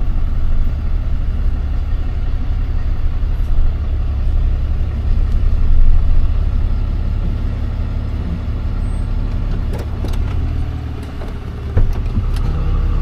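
Tow truck's engine running as the truck moves a short way, easing off about eleven seconds in, then settling into a steady idle after a sharp knock.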